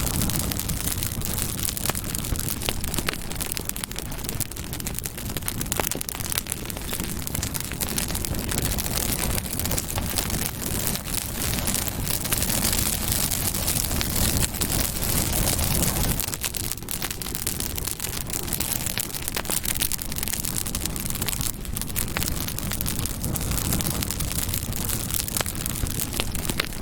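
Campfire burning, with a steady rush of flame and frequent sharp crackles and pops.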